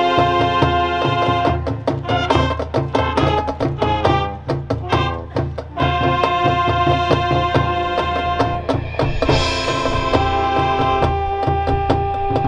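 High school marching band playing: brass holds sustained chords over a steady drum beat. Short, punchy notes come about two to five seconds in, and there is a bright crash about nine seconds in before the chords return.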